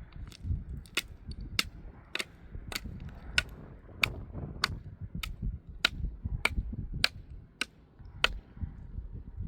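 Steady hammering: about a dozen sharp, ringing strikes at an even pace, roughly one every 0.6 seconds, over a low rumble.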